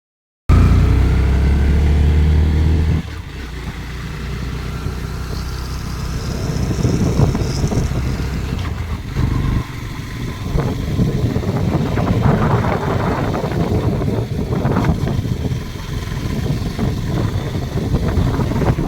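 A road vehicle on the move: engine running under a rough rumble of wind and road noise. The opening three seconds carry a louder steady hum that drops away abruptly, and a faint high whine rises briefly in the middle.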